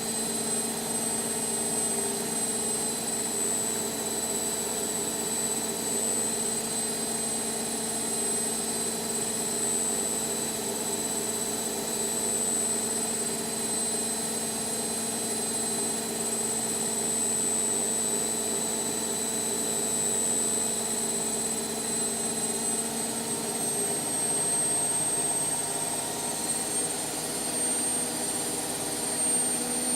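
Indesit washing machine drum spinning at speed with a steady high motor whine, the pitch edging up slightly near the end.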